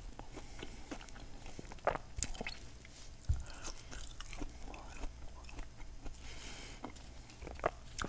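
A person chewing crispy double-fried French fries close to a clip-on microphone: irregular crunching and crackling of the fried crust, with a few sharper crunches.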